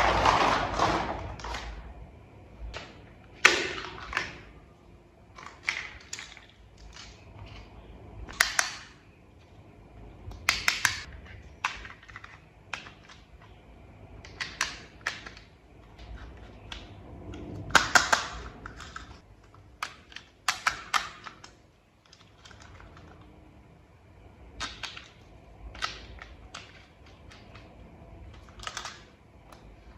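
Small plastic toy parts being handled and fitted together: irregular light clicks, taps and short rustles, a few sharper snaps among them. A louder burst of noise fades out in the first second.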